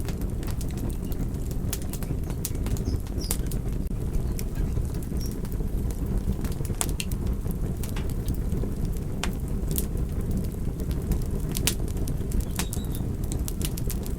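A fire crackling: sharp pops and snaps scattered irregularly, several a second, over a steady low rumble.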